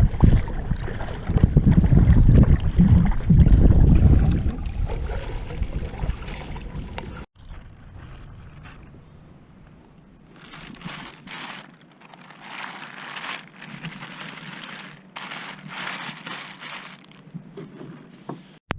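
Wind buffeting the microphone at sea, a heavy low rumble for about the first seven seconds. Then it cuts off suddenly, and a much quieter stretch follows with repeated short bursts of hiss.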